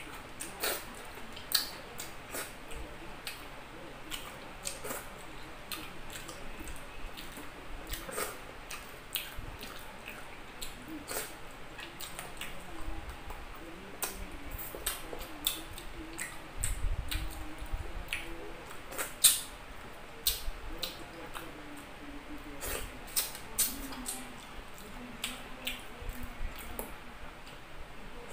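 Close-miked eating by hand: chewing with many irregular sharp, wet smacks and clicks of the lips and mouth. There is a brief low rumble a little past the middle.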